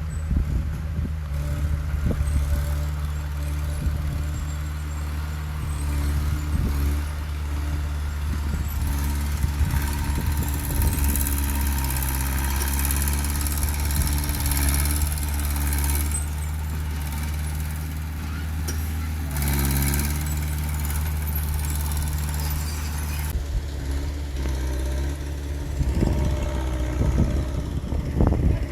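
Heavy diesel earthmoving machinery running under load, its engine note steady with a few brief dips and recoveries in pitch. Occasional short clanks are heard, and there is a hissing wash through the middle.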